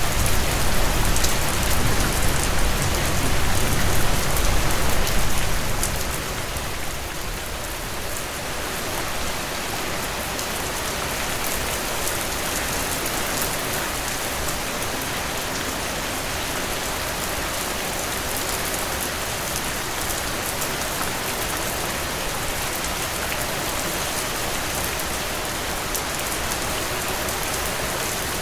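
Heavy rain pouring in a dense, steady hiss. A deep low rumble underneath fades out about six seconds in.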